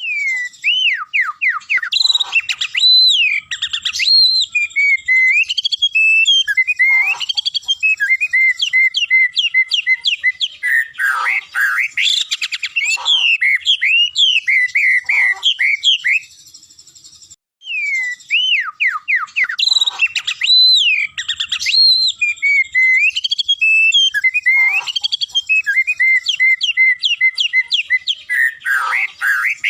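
Caged murai songbird singing a varied song of whistled glides and quick runs of repeated notes, with a pause of about a second a little past the middle.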